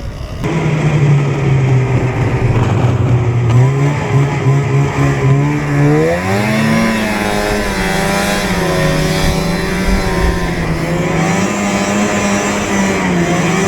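A vehicle's motor running under way, a steady drone that rises in pitch about six seconds in as it speeds up, then holds with small ups and downs.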